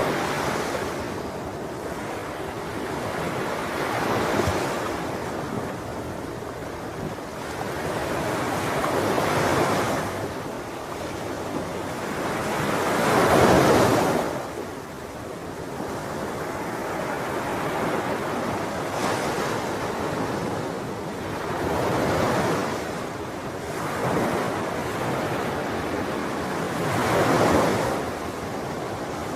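Ocean waves washing in, swelling and falling back every few seconds, with the loudest surge about halfway through.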